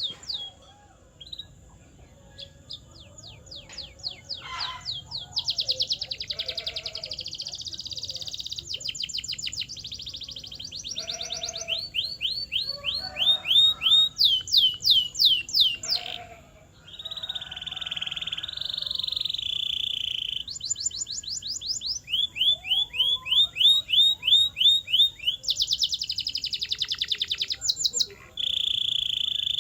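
Canary singing: runs of rapid, identical falling notes that switch to a new phrase every second or two, mixed with buzzing rolls held on one high pitch. The song is sparse for the first few seconds, then almost continuous.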